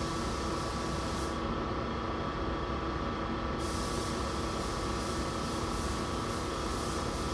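Steady hiss of compressed air from an automotive paint spray gun, with a constant hum beneath it.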